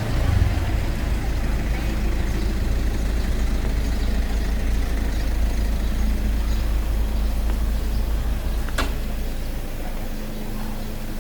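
Motorbike running during a ride, a steady low rumble. A single sharp click comes about nine seconds in, and the sound eases slightly after that.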